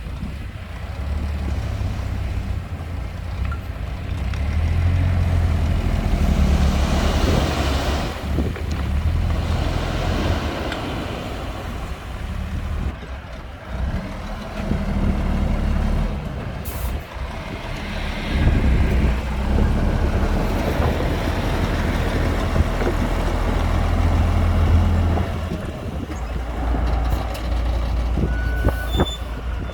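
Heavy diesel earthmoving machinery running, the engine working harder twice and easing off in between, as under load while pushing or tipping fill. A few brief high beeps sound near the end.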